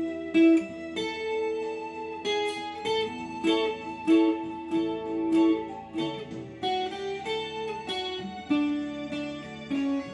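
Acoustic guitar picking a slow single-note melody, each note plucked and left to ring over lower bass notes.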